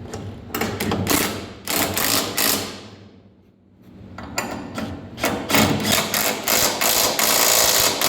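Forage blower's belt drive engaged by the tensioner, the machine spinning with a loud, rapid mechanical clatter that dies away about three seconds in, then starts up again about four seconds in and keeps going.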